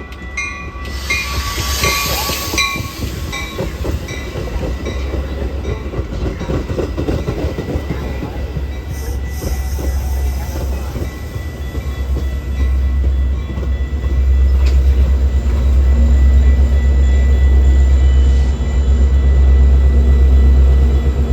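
Train passing, its steady low rumble and rattling growing louder about two-thirds of the way through, with a brief hiss about a second in.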